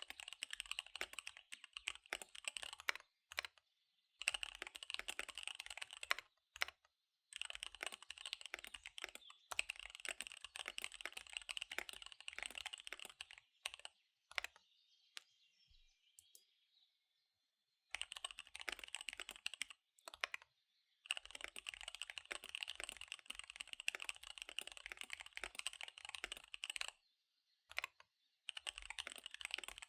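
Fast typing on a KBD75 V3 mechanical keyboard with SP-Star Dark Magic Girl tactile switches and DSA keycaps: dense runs of key clicks broken by short pauses, and a longer pause of a few seconds about halfway through.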